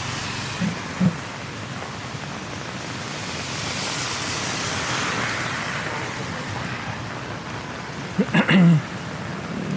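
Steady rain falling and pattering on a small hand-held umbrella, an even hiss that swells a little midway. A brief voice-like sound a little after eight seconds in.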